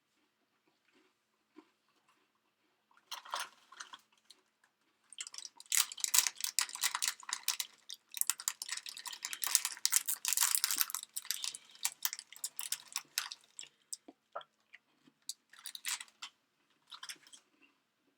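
Crunchy snack being chewed close to the microphone: crackling bursts of crunching, a long dense run of it in the middle and a few short bites near the end.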